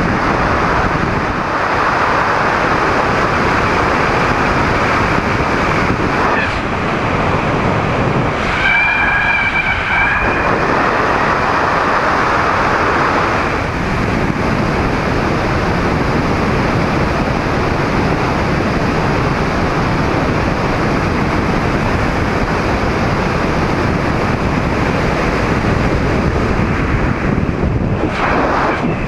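Loud, steady rush of wind over the microphone during paramotor flight, with a brief whistling tone about nine seconds in.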